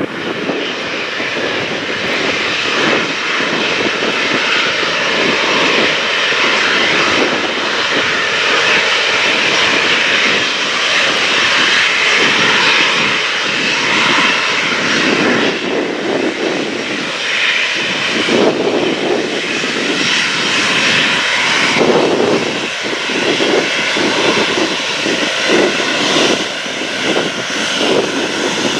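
Boeing 737-800 jet with its CFM56 turbofan engines running loud and steady as the airliner moves on the runway, a continuous rushing jet noise with a faint whine in it. Gusty wind buffets the microphone.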